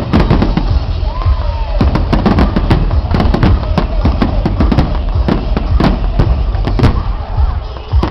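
Fireworks going off in rapid succession: a dense run of sharp bangs and crackles, several a second, over a low rumble.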